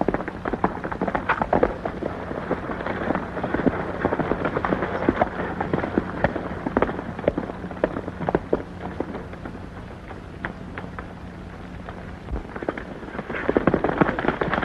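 Hooves of several horses galloping, a dense irregular clatter that grows louder near the end as the riders come closer.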